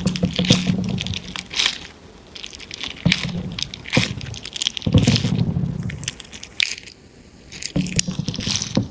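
Something crackly and squishy being pressed and popped in several bouts, each a dense run of small crackling pops over a soft low thud, with short pauses between.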